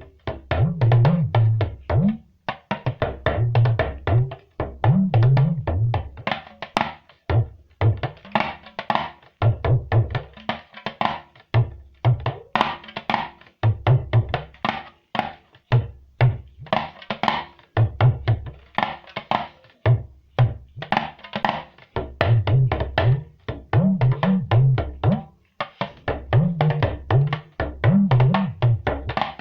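Talking drum played in a fast, continuous alujo rhythm of quick strokes, the low notes sliding up and down in pitch as the drum's tension is squeezed and released.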